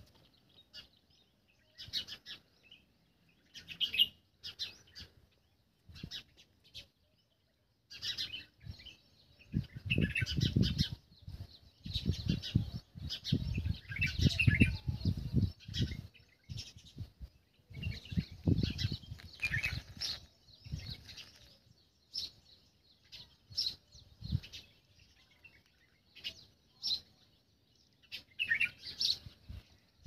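Small birds chirping, short high calls repeated on and off. Stretches of low rumbling noise come in and out during the middle part.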